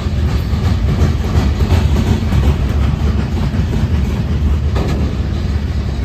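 A train rolling past at close range: a loud, steady rumble of wheels on rail with scattered clacks.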